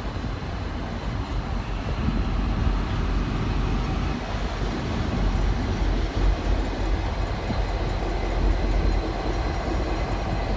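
Diesel locomotive rumbling nearby: a steady low engine and rail noise.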